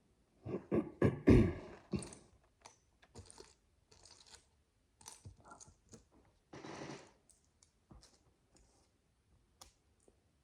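Micro bricks, tiny plastic building bricks, clicking and clattering as they are handled and pressed together. A dense cluster of clatter comes in the first two seconds, a short rustle about two-thirds through, then scattered light clicks.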